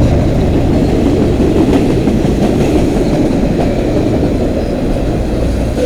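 Freight cars of a CN manifest train rolling past close by: a steady, loud rumble of steel wheels on the rails.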